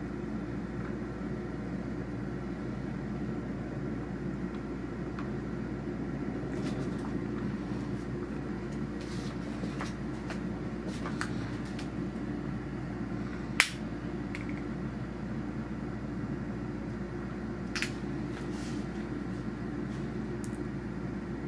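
Steady low mechanical drone throughout, with a few short sharp clicks, the clearest about halfway through and another a few seconds later.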